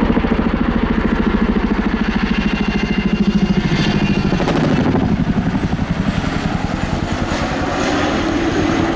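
Boeing Chinook HC6 tandem-rotor helicopter in a rapid banked break, its rotors beating with a fast, heavy blade slap. The pulsing eases after about five seconds into a steadier rotor and engine sound.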